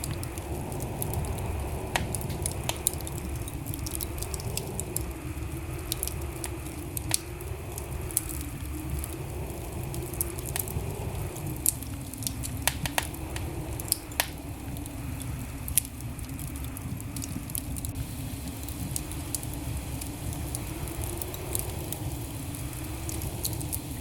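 Wood fire burning in a fireplace: a steady low rumble with frequent sharp, irregular crackles and pops from the burning logs.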